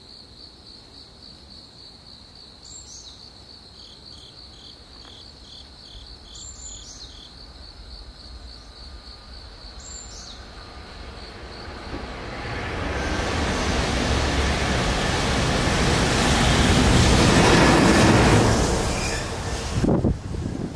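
Freight train approaching through a railway tunnel: a rumble that builds from about twelve seconds in and is loudest near the end, followed by a few sharp knocks. Before it, a steady high pulsing chirp and a few short falling whistles.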